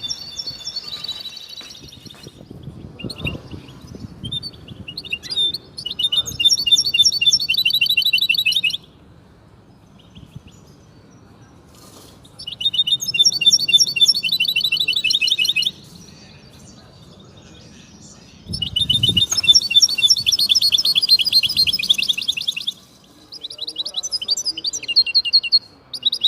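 European goldfinch singing: bouts of fast, twittering song lasting three to six seconds each, four phrases with short pauses between them.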